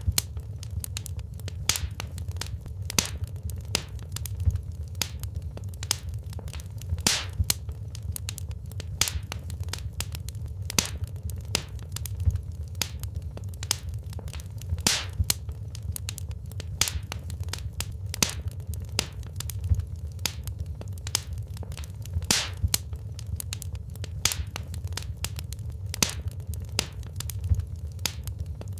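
Wood fire burning in a fireplace: irregular sharp crackles and pops of the burning logs, several a second, over a steady low rumble of the flames.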